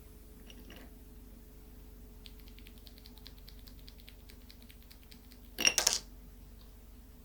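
Mechanical keyboard switches being handled during a switch swap: a run of quick, light plastic ticks, then a short, louder clatter about two-thirds of the way through, over a faint steady hum.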